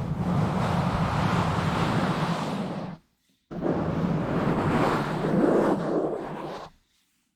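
Hands rubbing and scratching directly on a bare, uncovered microphone, a rough, dense noise heavy in the low end. It comes in two stretches of about three seconds each, with a short dead-silent gap about three seconds in.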